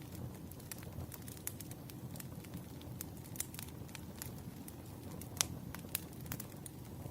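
Wood fire crackling: irregular sharp pops and snaps over a low, steady rumble, with one louder pop about five and a half seconds in.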